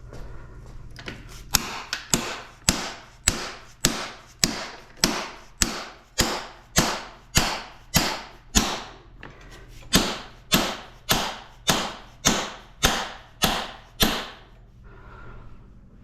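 Steady, evenly paced hammer blows on metal, about twenty strikes at well over one a second, each ringing briefly, with a short pause about nine seconds in. They fit driving out a stuck part during a motorcycle teardown.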